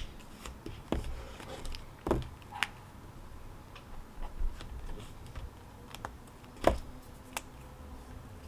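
A few scattered clicks and light knocks at irregular intervals, over a faint steady background hum.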